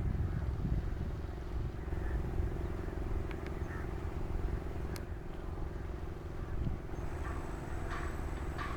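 Diesel locomotive 24121 'Tun Perak' running with a steady low engine drone, with short bird chirps over it near the end.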